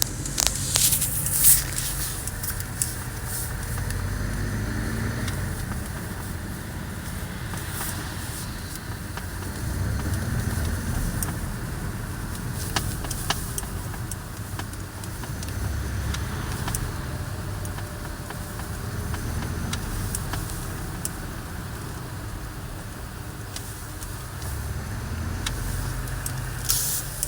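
Porsche 718 Cayman S's turbocharged flat-four pulling under light load, its note rising and falling in several gentle swells, with a metallic resonance buzz that appears at low load between about 1000 and 2000 rpm and stops when the throttle is lifted. A few sharp clicks come in the first couple of seconds.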